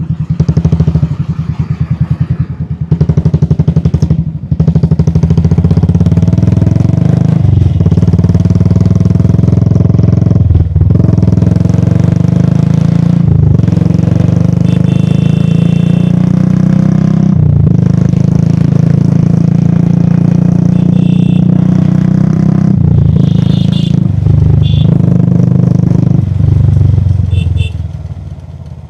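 Royal Enfield Classic 350's single-cylinder engine running under way, its note breaking off briefly several times as the rider eases off or shifts. It drops quieter near the end as the bike slows.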